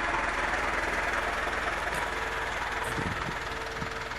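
A heavy vehicle's engine running steadily at low speed, a constant rumble with a broad hiss over it.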